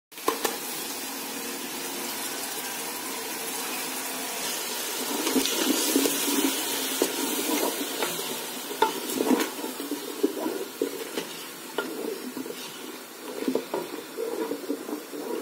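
Ground green chilli and ginger-garlic paste sizzling in hot oil and tomato masala in an aluminium pan. From about five seconds in, a spatula stirs and scrapes against the pan, with irregular clicks over the sizzle.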